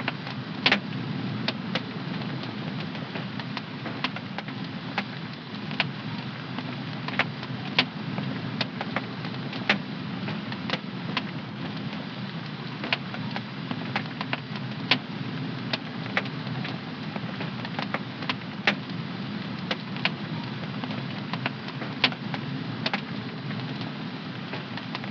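Wood fire burning in a home fireplace: a steady low rush of flame with sharp, irregular crackles and pops about once a second.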